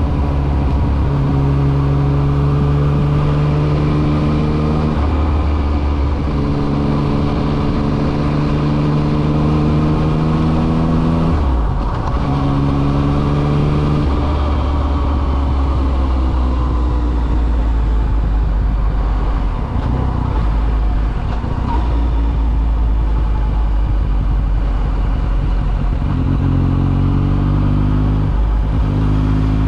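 Yamaha XSR900's inline three-cylinder engine under way. The engine note climbs slowly and breaks several times as the gears change, over steady wind and road noise.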